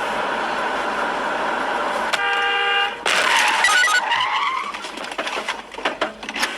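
Car road noise, then a short car-horn blast about two seconds in, followed by a loud, harsh burst lasting about a second and a run of scattered knocks.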